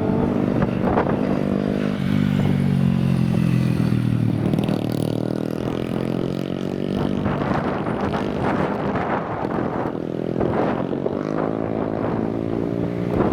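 Motorcycle engines revving and accelerating. The pitch holds high and steady for a couple of seconds, drops away about four seconds in, then climbs again in several rising sweeps, with a crackly edge in the later revs.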